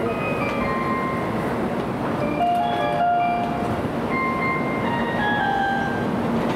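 Shinkansen train standing at the platform with its doors shut, a constant low hum under the busy station noise, while a string of short electronic tones at changing pitches sounds over it.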